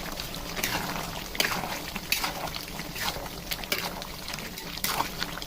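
Cooking in a kadai: liquid sounds over a steady hiss, broken by a string of short, sharp scraping or splashing strokes at irregular intervals.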